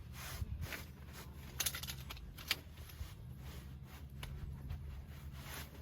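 Scattered small clicks and rustles of objects being handled, over a steady low hum.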